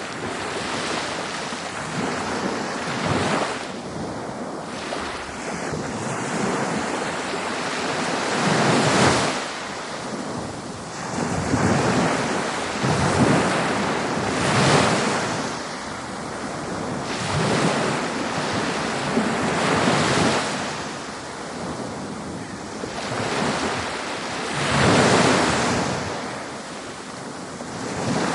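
Ocean waves breaking on a beach, a continuous surf wash that swells and falls every few seconds as each wave comes in and draws back.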